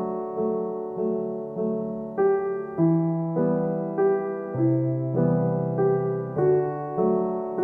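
Background piano music: soft, slow notes and chords, a new note about every half second to second.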